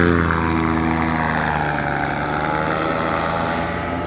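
Small propeller engine running steadily, its pitch sinking slightly in the first couple of seconds.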